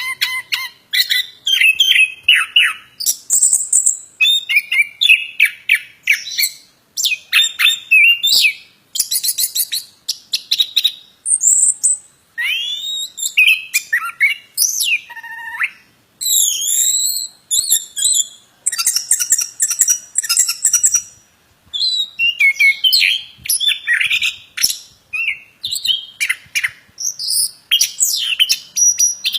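A plontang songbird singing vigorously: a fast, almost unbroken run of varied high-pitched chirps, trills and whistled sweeps, broken only by short pauses.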